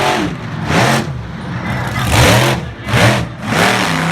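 Monster truck engine revving hard in a series of quick blips, its pitch climbing and dropping several times, then settling to a steadier note near the end.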